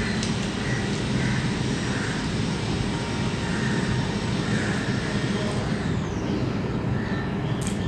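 A steady low rumbling drone, like a motor or fan running, with faint soft sounds over it.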